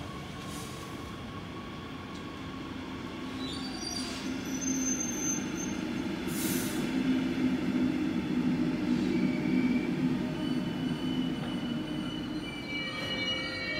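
Red double-deck regional push-pull train rolling past along the platform track: a rumble of wheels on the rails that grows louder through the middle as the carriages pass. Thin, high squealing tones from the running gear come in about four seconds in and again near the end.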